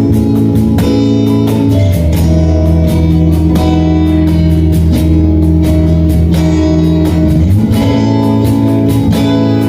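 Guitar music: sustained chords strummed in a steady, even rhythm, with no singing.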